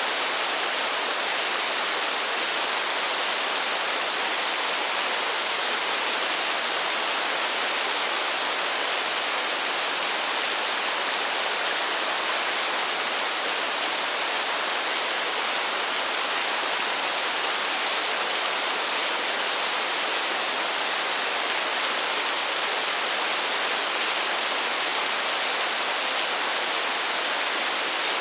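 Steady, even rushing hiss of falling water, with no single drops or splashes standing out and no change in level.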